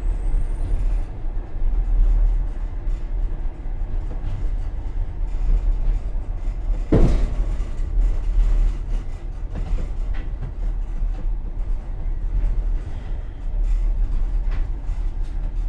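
Running noise of a moving passenger train heard from the rear vestibule of its last car: a steady low rumble, with one sharp clack of the wheels about halfway through and a few fainter clicks.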